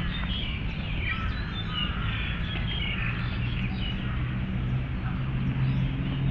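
Birds chirping over a steady low hum of city traffic, with an engine drone building near the end.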